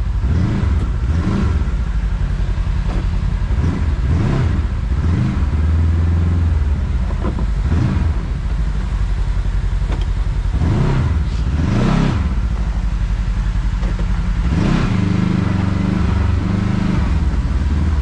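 Kawasaki KRX side-by-side's parallel-twin engine running under load on a trail, its revs rising and falling again and again as the driver works the throttle.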